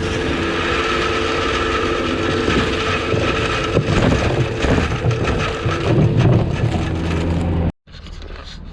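Plow truck driving: a steady engine and road rumble, swelling in the middle, cut off abruptly near the end.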